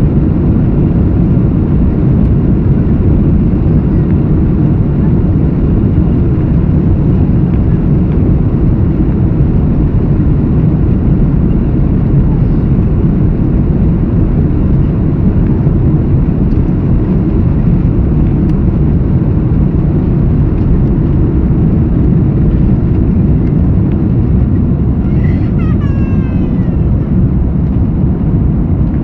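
Airbus A330-200 jet engines at full takeoff thrust, heard from inside the passenger cabin as a steady, loud, deep noise that does not change.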